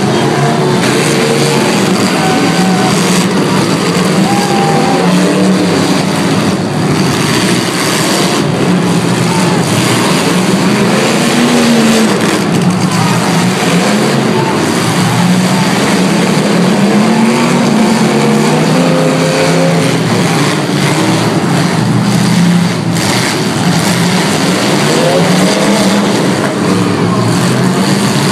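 Several demolition derby cars' engines revving hard and unevenly over one another, with a few sharp crunching impacts as cars hit each other.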